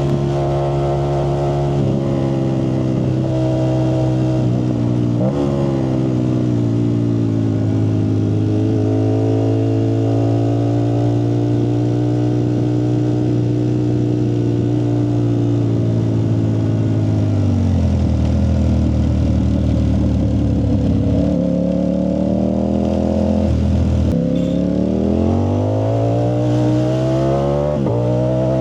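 Ducati Streetfighter V4S's 1103 cc V4 engine running through a Zard aftermarket exhaust. The engine note holds fairly steady, then falls and stays low for a few seconds, then climbs again near the end as the engine revs up.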